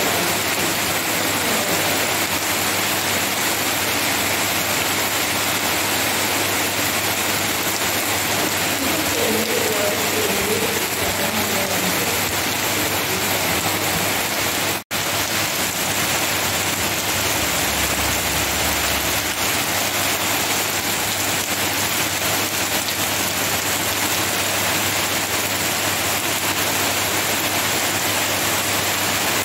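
Steady rain falling on banana leaves and bare ground, an even hiss throughout. The sound cuts out for an instant about halfway through.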